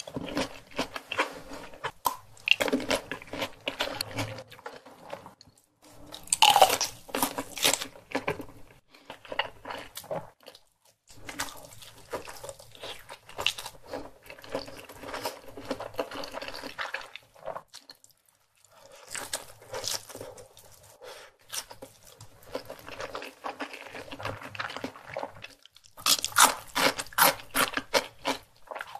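Close-miked chewing and biting of fried egg and ham: bouts of rapid mouth clicks separated by short pauses, the last bout near the end the loudest.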